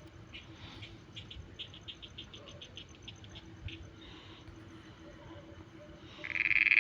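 Frogs calling at night: a quick run of short clicking notes, about six a second, for a couple of seconds. Near the end a much louder frog call starts up close. A faint steady high insect trill runs underneath.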